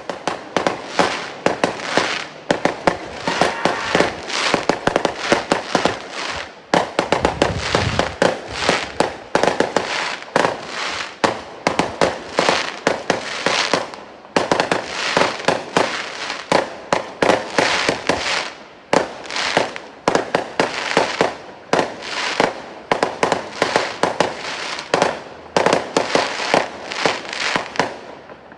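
Fireworks going off in a fast, dense string of sharp bangs and crackles, several a second, with a few brief lulls; it starts and stops abruptly.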